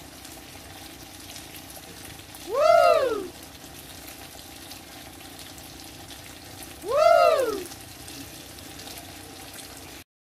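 Sambal sausages simmering in a frying pan, a steady sizzling, bubbling hiss. Twice, a loud pitched call of about a second rises and falls in pitch. The sound cuts off just before the end.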